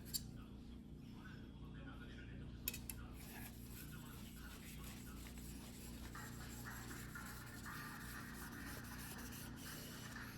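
A single-bevel sashimi knife's blade rubbing on a whetstone during hand sharpening: faint scraping, with a few light clicks early and a low steady hum underneath.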